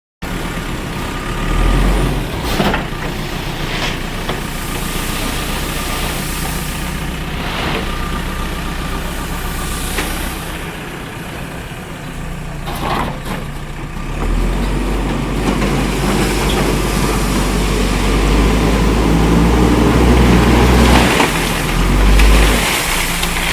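JCB backhoe loader's diesel engine running, its engine note rising and getting louder under load about two-thirds of the way through. Several sharp knocks come in the first half.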